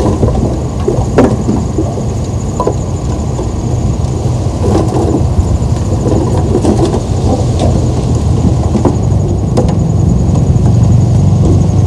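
Heavy diesel earthmoving machinery running, a steady low engine rumble that grows slightly louder near the end, with scattered metallic clanks and knocks.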